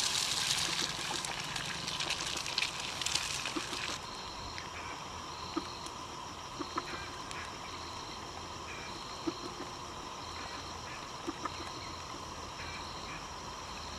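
Outdoor forest ambience over a faint steady low hum, with a high pulsing insect-like buzz and a few soft clicks. For the first four seconds a hissing, crackling rush sits on top and then stops.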